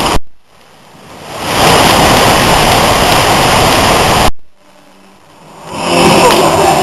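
Loud, steady rush of storm wind and rain over the microphone. It cuts off suddenly about a third of a second in and again after about four seconds, each time swelling back up.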